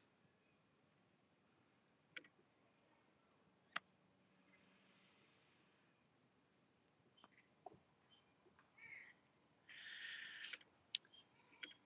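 Near silence with faint, steady cricket chirping, one high chirp about every second, and a few small clicks and a brief soft hiss near the end.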